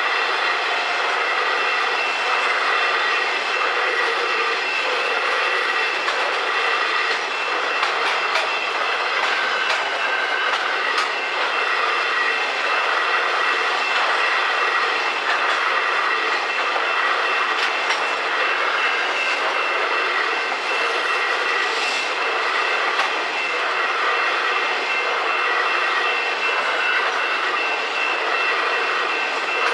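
Freight train rolling along the rails: a steady rumble of wagons with scattered clicks from the wheels, and a thin steady high tone over it.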